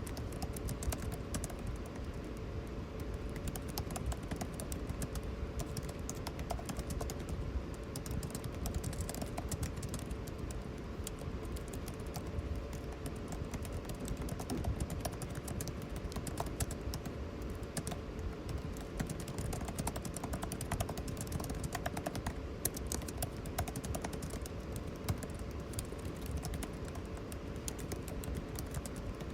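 Computer keyboard typing: a fast, irregular run of key clicks, over the steady hum of air conditioning.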